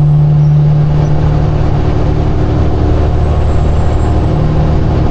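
Peterbilt semi truck's diesel engine running steadily while cruising. Its strongest low note fades about two seconds in and comes back near the end.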